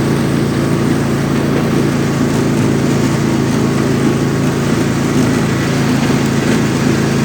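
Riding lawn mower's small engine running at a steady speed while the tractor drives along, towing a trailer.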